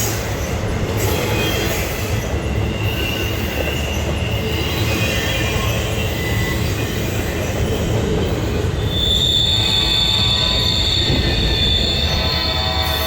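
Norfolk Southern freight train rolling past with a steady heavy rumble and high-pitched wheel squeal, the squeal growing stronger about nine seconds in.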